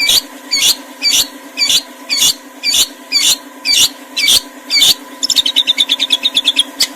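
A songbird calling with harsh, sharp notes about twice a second, broken about five seconds in by a rapid trill of short notes lasting about a second and a half. A steady hum runs underneath.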